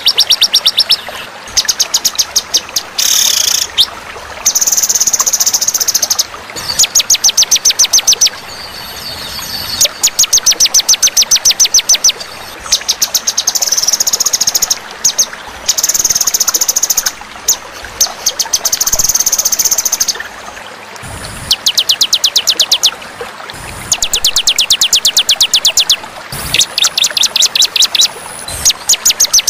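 Songbird trills from a masteran, a bird-song tutoring track: rapid, high trills repeated in bursts of one to two seconds, one after another with short gaps.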